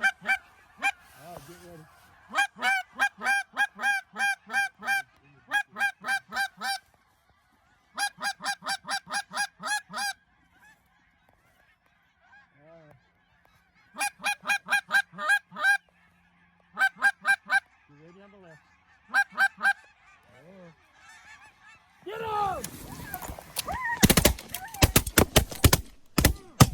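Goose honking in quick, evenly paced runs of about six calls a second, broken by short pauses, with a few lower, softer calls between them. About four seconds before the end, a louder, denser jumble of sound sets in.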